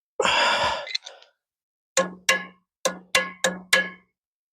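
A short harsh burst of noise, then six sharp hammer blows on steel, two and then four in quick succession, each ringing with the same low metallic tone. The blows are being used to drive a stubborn U-joint out of its driveshaft yoke.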